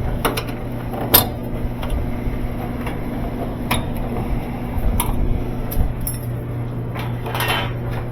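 Top-loading washing machine's drive motor running with a steady hum, with scattered clicks and knocks from the drive and basket. The repairer takes the fault for a stripped spin tube, with the basket slipping on the drive hub instead of spinning.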